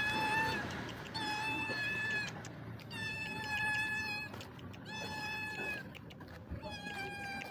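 Hungry stray cat meowing over and over: about five high, steady-pitched meows, each under a second long, one every second and a half or so.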